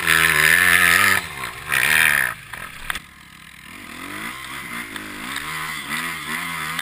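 Kawasaki KX250F four-stroke dirt bike engine revving hard, surging briefly, then dropping off about three seconds in and building back up with uneven, wavering revs.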